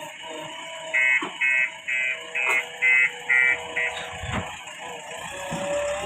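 Electronic alarm beeper sounding seven short beeps, about two a second, over a steady machine hum, then stopping.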